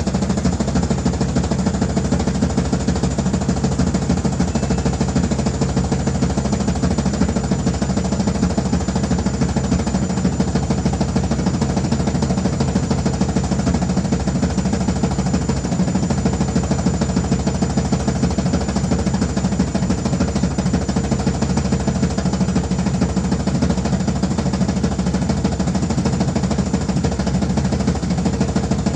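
Washing machine running loudly and steadily, a low drone with a fast rattling vibration that never lets up.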